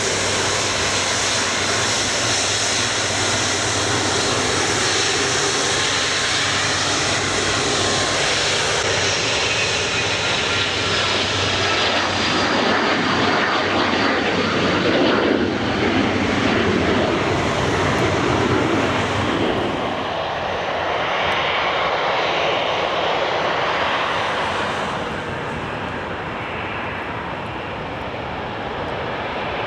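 Jet airliner's engines running as it passes close by: a steady rush with a high whine and falling whistles, loudest about halfway through, then fading.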